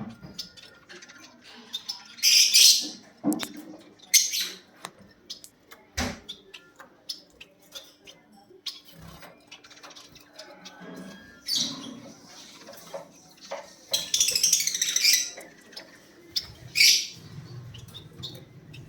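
Pet lovebirds calling: several loud, shrill squawks, the longest about a second, among chirps and scattered small clicks.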